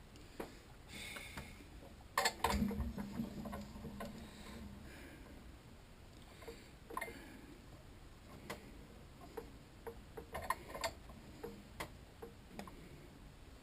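Scattered light metallic clicks and knocks of hand adjustments on a milling machine, unlocking the table and finding center, with a louder clatter about two seconds in.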